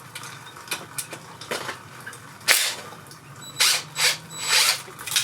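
Hand wrench or socket working the 10 mm shift drum stopper arm bolt on a 1985 Honda VT700C engine: a series of short, sharp metallic clicks and scrapes, irregularly spaced, the loudest about halfway through.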